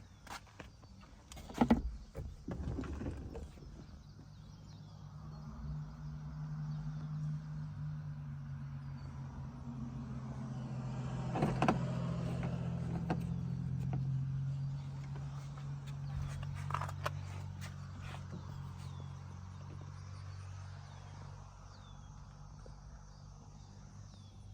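A few sharp knocks about two seconds in, then a small vehicle engine running at a steady pitch, growing louder toward the middle and fading again near the end.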